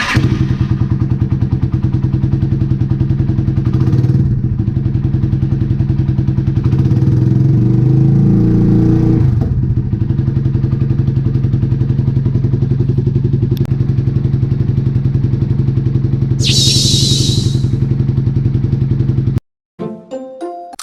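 Yamaha TW225's single-cylinder four-stroke engine running at idle, revved up briefly about seven seconds in, then settling back to idle before cutting off suddenly. A short hiss sounds over it a few seconds before the cut.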